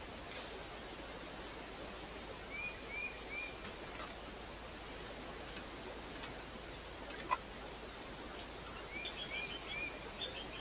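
Small birds at a feeder giving short call notes: twice, a quick run of three arched chirps, with a few higher chips near the end. The calls sit over a steady background hiss, and a single sharp click comes about seven seconds in.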